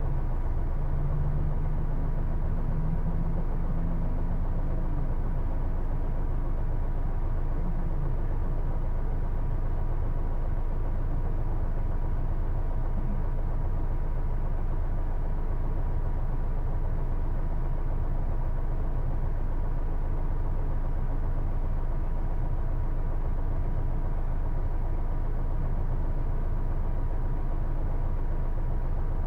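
Cabin running noise of a Hino Blue Ribbon II city bus (PJ-KV234L1), its inline-six diesel and drivetrain running steadily. A low whine rises slightly in pitch over the first few seconds, and a thin steady high tone runs underneath.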